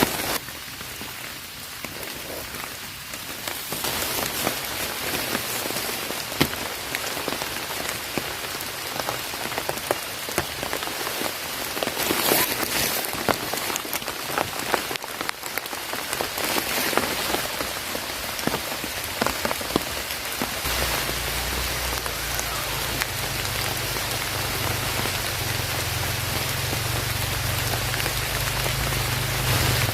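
Heavy rain falling steadily, with many separate drops ticking on a surface. About two-thirds of the way in, a low steady rumble joins underneath.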